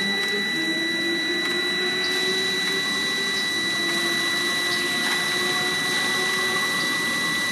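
Webasto Thermotop C diesel water heater running in its start-up phase: a steady motor whir with a constant high whine that starts abruptly at the beginning and holds evenly.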